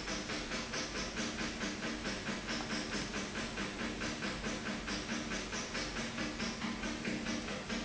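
Running shower hissing with a quick, even pulse several times a second, like a beat, over a steady low hum from the water flow.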